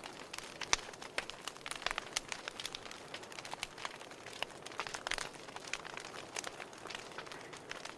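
Wood fire in a fireplace crackling: irregular sharp pops and snaps over a soft hiss, with one louder pop about three-quarters of a second in.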